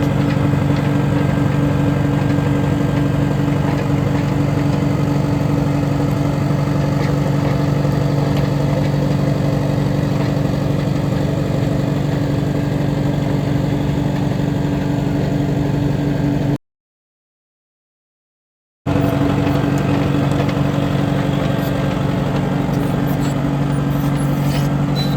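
Track loader engine running steadily at a low, even speed while warming up. The sound cuts out completely for about two seconds just past halfway, then resumes unchanged.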